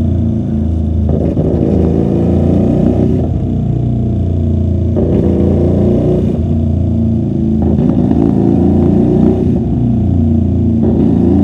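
QJMotor SRV250 motorcycle engine with a custom two-into-one exhaust, under way. The throttle opens and closes several times, so the engine note rises and falls repeatedly. Heard muffled through a microphone in the rider's bag.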